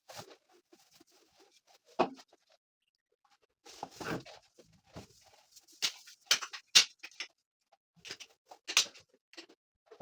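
Household objects being handled: a scatter of irregular knocks, clacks and short rustles, with the loudest knocks about two, six to seven and nine seconds in.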